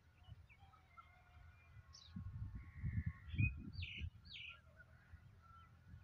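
Birds calling: a few short high chirps and thin whistles about two to four seconds in, over a faint outdoor background. Low rumbling on the microphone swells through the middle and is the loudest sound.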